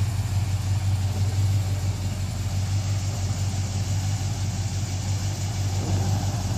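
1972 Dodge Monaco's V8 idling steadily, its exhaust note low and even.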